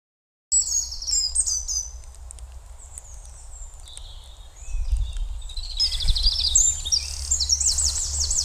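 Several birds chirping and trilling, starting abruptly about half a second in, with rapid runs of repeated high notes in the second half, over a low steady hum.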